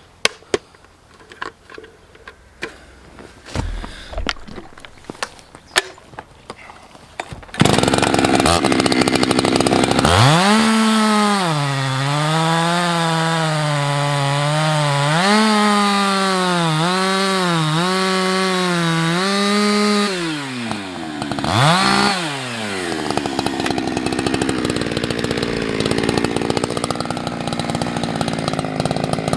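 Husqvarna 365 X-Torq two-stroke chainsaw cutting beech. After a few light knocks it comes in suddenly about seven seconds in, then revs up. It runs under load with its pitch dipping and recovering again and again as the chain bites into the wood. Near two-thirds of the way it briefly drops and blips, then runs on.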